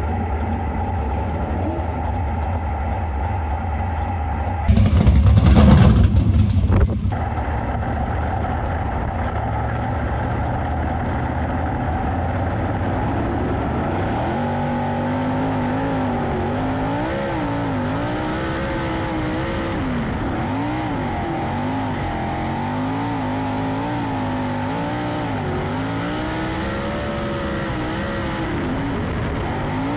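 Race car engines running, their pitch rising and falling over and over like cars accelerating and lifting around a track. A loud rushing burst comes about five seconds in.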